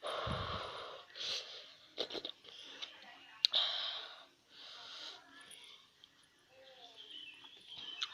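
Person eating very spicy instant noodles up close to the microphone: repeated slurps and sharp hissing breaths against the chilli heat, roughly once a second. A low bump comes at the start and there are a few sharp clicks.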